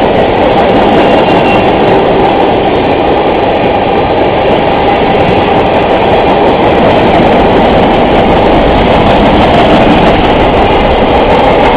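Freight train rolling past, a loud steady rumble and rush of wheels on rail.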